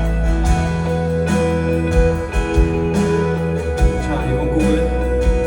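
Live band playing an instrumental passage led by guitar, with a sustained bass line underneath.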